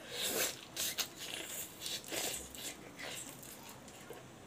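Close-up eating sounds of someone biting into a piece of pork leg and chewing it: a series of short, noisy bites and chews, loudest in the first second.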